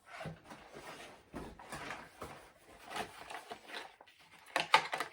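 Rustling and clattering of hair dryer attachments being handled and moved about, with a couple of sharp knocks a little before the end.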